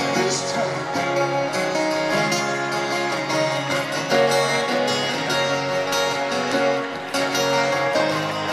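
Live music in an instrumental break between sung verses: acoustic guitar strummed steadily, with no singing.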